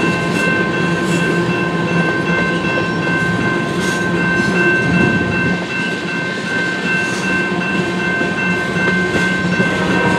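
Freight train tank cars rolling past at a grade crossing, their steel wheels clacking over the rails. A steady ringing from the crossing bell sounds over it.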